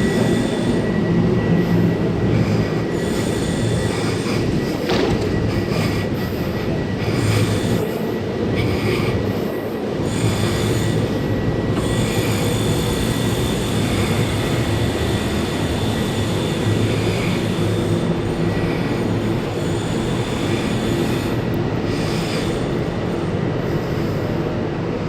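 Passenger train running through a station: a steady low rumble with a thin, steady high-pitched whine over it.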